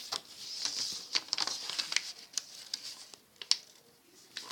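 A sheet of paper being handled and folded: rustling and crinkling with sharp crackles as creases are pressed in, loudest about a second in and again about three and a half seconds in.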